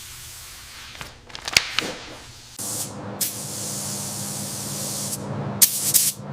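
Steady spraying hiss with a low hum under it, starting about two and a half seconds in, with a few sharp clicks and knocks before and during it.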